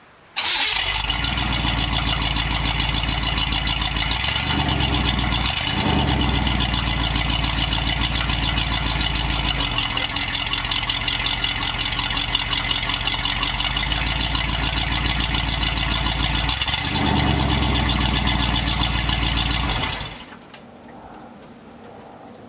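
1979 Chevy Malibu's stock 305 small-block V8 with a four-barrel Rochester Quadrajet, running with no catalytic converter and the exhaust open straight out of the X pipe. It starts about half a second in and idles loudly and unmuffled, with its note shifting briefly twice. It shuts off near the end.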